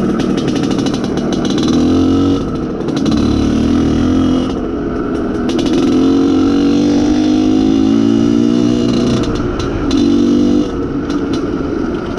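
IZh Planeta Sport's single-cylinder two-stroke engine being ridden during running-in. The throttle is opened several times, the longest pull lasting about three seconds with the pitch slowly rising, and the engine falls back to a lower, rough note between pulls.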